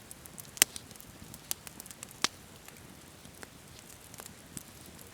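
Wood campfire crackling, with scattered sharp pops over a soft steady burn; the loudest pop comes about half a second in, with more around one and a half and two seconds.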